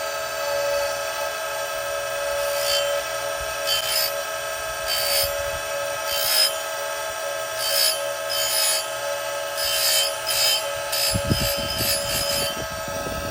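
Oregon 410-120 bench chain grinder's motor running with a steady whine while its CBN wheel grinds the cutters of a .325 chainsaw chain in about a dozen short rasping passes. A few low knocks come near the end.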